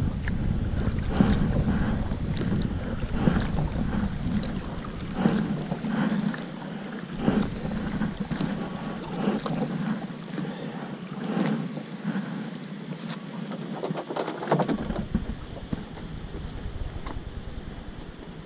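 Wind buffeting the microphone with a low rumble, which drops away for several seconds mid-way, over the repeated splashes of kayak paddle strokes in the water.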